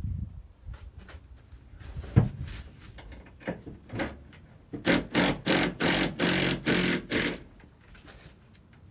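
Ratchet wrench with a 9/16 socket undoing the rear shock absorber mounting bolts on a classic Mini, a run of about eight quick ratcheting strokes, about three a second, after a single knock about two seconds in.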